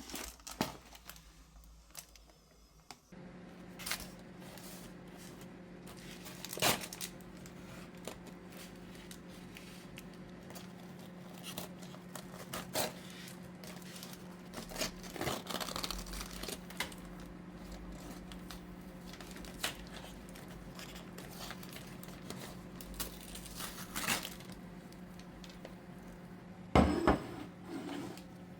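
An appliance starts humming steadily about three seconds in, with scattered crinkling, taps and clicks of handling over it, and a louder clatter near the end.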